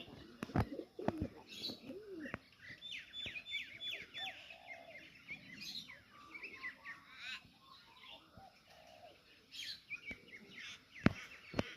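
Small birds chirping and twittering in quick falling notes, with a pigeon cooing low in the first couple of seconds. A couple of sharp clicks come near the end.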